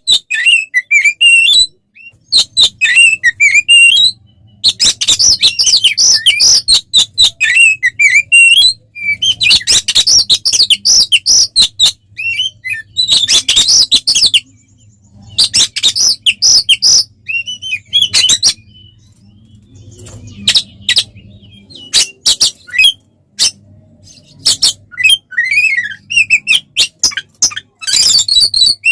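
Oriental magpie-robin (kacer) in loud, aggressive fighting song. It gives repeated bouts of rapid, varied whistles, warbles and harsh chattering notes, broken by short pauses.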